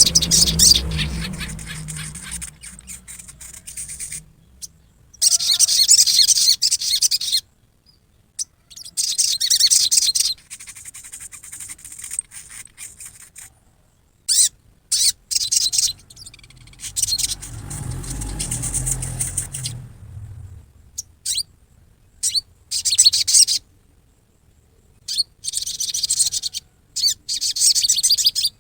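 Sogon (ruby-cheeked sunbird) giving harsh, rapid, high-pitched twittering chatter, the 'riwikan' call, in bursts of one to three seconds with short pauses between. A low rumble sits under the calls near the start and again about two-thirds of the way in.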